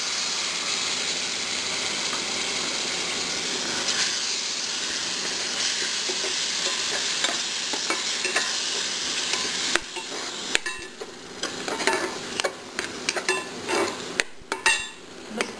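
Tomato purée sizzling as it hits hot oil and spices in a metal kadhai, a steady hiss. About ten seconds in the hiss drops away and a metal spatula scrapes and knocks against the pan as the masala is stirred.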